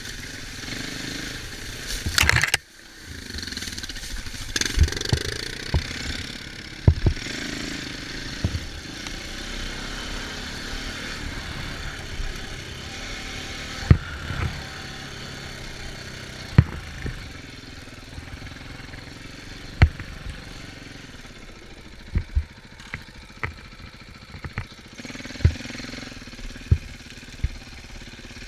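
Off-road vehicle engine running while riding, with sharp knocks every few seconds and a loud rush of noise about two seconds in.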